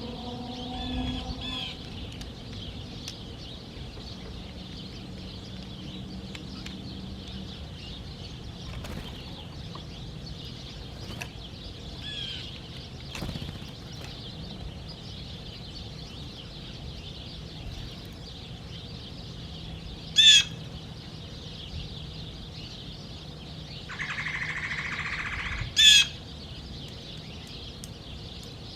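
Birds calling, with a steady high chirping background and a few small calls. Two short, loud calls come about 20 and 26 seconds in, with a brief rushing noise just before the second.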